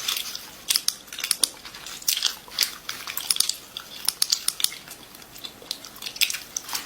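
Irregular crisp crunching and clicking, several snaps a second, close to the microphone.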